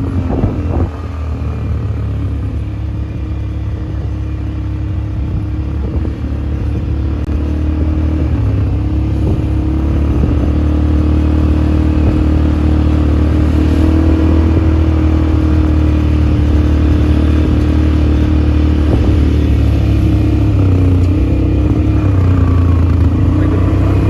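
ATV engine running steadily under way, its note wavering a little in pitch and growing slightly louder over the first ten seconds or so.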